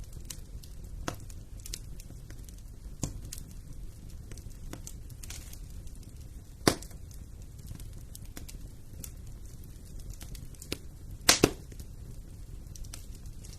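Wood fire burning in a fireplace, crackling with a low steady rumble and scattered sharp pops, the loudest a single pop about halfway through and a quick double pop near the end.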